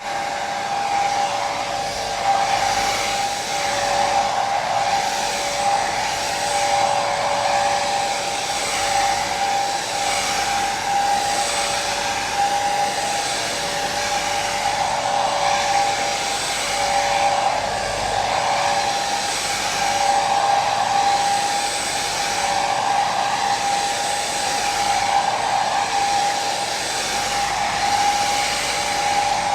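Electric hair dryer running continuously: a steady whooshing blow of air with a high motor whine held on two steady tones, swelling gently every couple of seconds.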